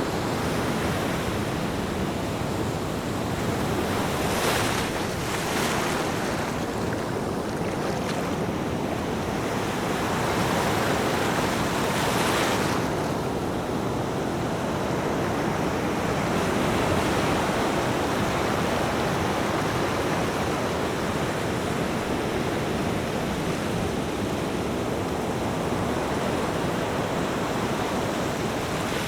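Ocean waves washing ashore, a steady surf with a couple of louder hissing swells in the first half, and some wind buffeting the microphone.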